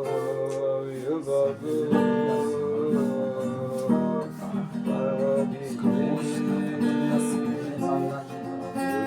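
Instrumental music: a guitar strumming and picking over long held chords that change every second or two, with no singing.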